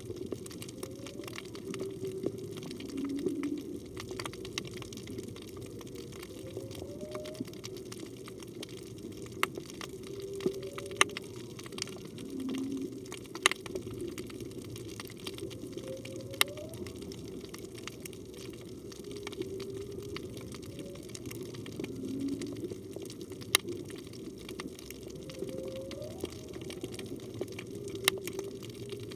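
Humpback whale song heard underwater: short low moans and upward-sweeping calls, repeating in a phrase about every three seconds, over a steady underwater rush with scattered sharp clicks.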